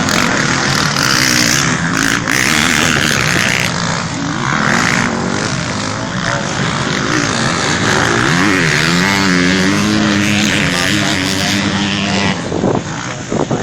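Motocross bikes racing past, their engines revving up and down with several engine notes overlapping. The sound drops and turns choppy near the end.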